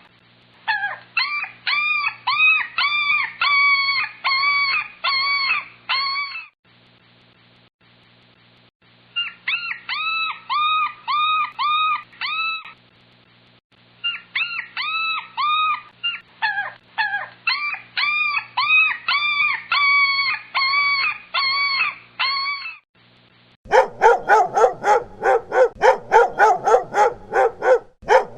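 A dog crying: runs of quick, high yelping whines, each rising and falling in pitch, broken by short pauses. About 23 seconds in, a louder, faster series of lower dog barks takes over.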